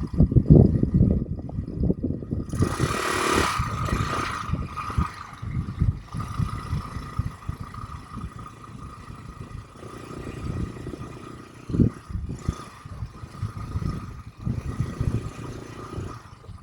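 ATV engine running with rattling and clatter from the ride over rough ground, plus a steady whine. A rush of hiss comes about three seconds in.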